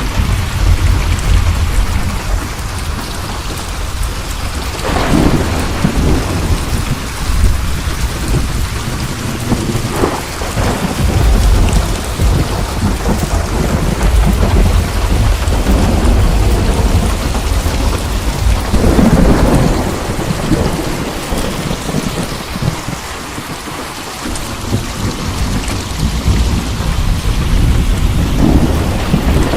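Heavy rain falling with continuous rolling thunder, a deep low rumble throughout, swelling in louder peals about five, ten and nineteen seconds in.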